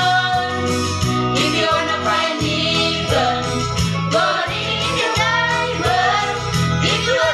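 Voices singing a melody together over instrumental accompaniment with a steady, repeating bass line.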